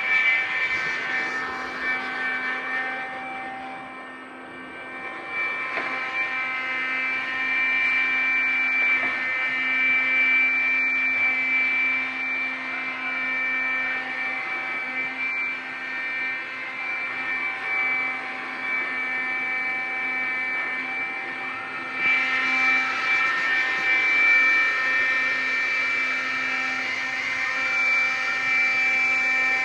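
iRobot Scooba 390 floor-scrubbing robot running: a steady whine of its motors with several held tones over a hiss. It dips briefly about four seconds in, and the hiss grows brighter from about twenty-two seconds in.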